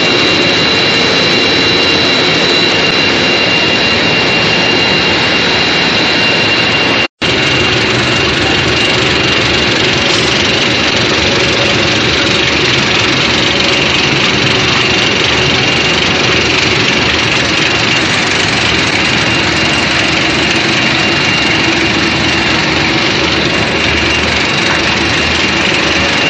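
Core-filled snack extrusion line running: a loud, steady machine noise with a high whine over it. The sound drops out for an instant about seven seconds in.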